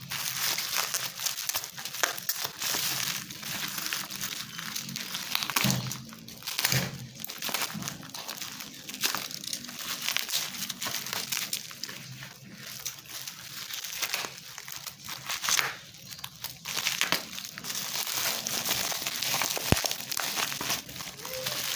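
Hard plastic clamshell packaging and its paper card being handled and pulled open, crinkling and crackling irregularly with small clicks and snaps.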